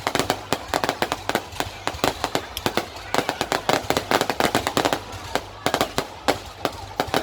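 Fireworks going off: a dense run of sharp cracks and pops, several a second and irregular, with hardly a gap between them.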